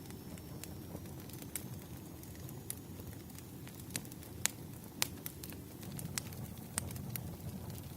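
Wood fire burning: scattered sharp crackles and pops from the burning logs over a low, steady rumble of flame. The loudest pops come about halfway through.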